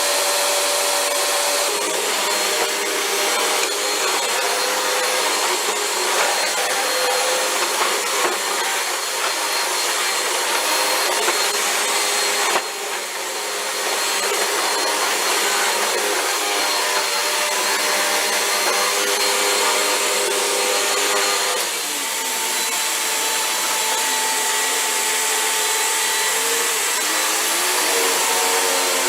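Vacuum cleaner running steadily, its tone shifting in pitch a few times as the airflow changes, with a brief dip about twelve seconds in.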